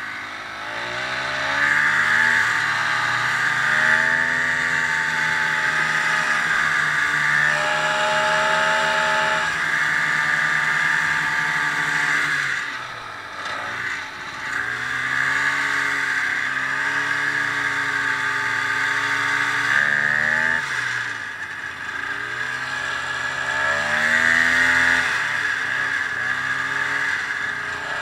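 Ski-Doo snowmobile engine pulling away and running under changing throttle, revs rising and falling several times. It eases off about halfway through, then picks up again.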